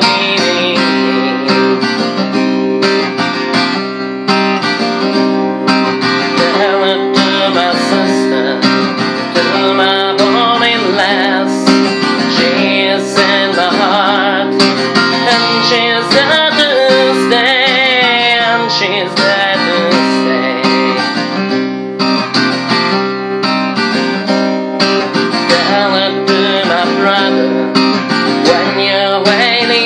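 Music led by an acoustic guitar, played steadily throughout.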